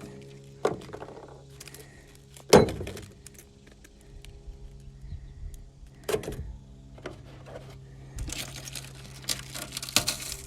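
Scattered knocks and clatter, with one sharp loud knock about two and a half seconds in and crackly scraping near the end, as burnt, hardened spray foam is chipped and pulled out of a microwave. A steady low hum runs underneath.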